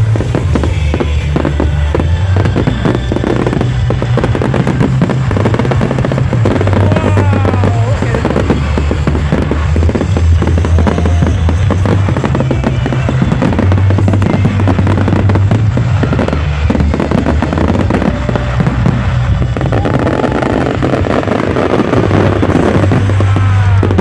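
Fireworks display going off: a dense run of bangs and crackles, over loud music with a heavy bass line that steps between notes.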